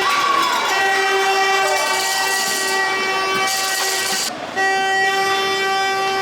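Horn sounding in long steady blasts over crowd noise in an ice hockey rink, with a short break about four seconds in.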